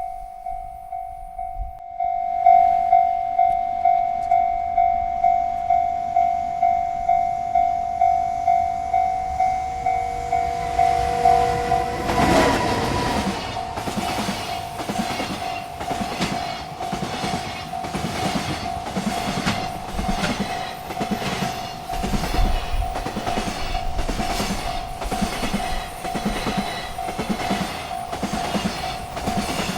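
Railroad crossing bell ringing about twice a second. About twelve seconds in, a freight train arrives at the crossing, and its wheels clack over the rail joints in a steady rhythm while the bell keeps ringing.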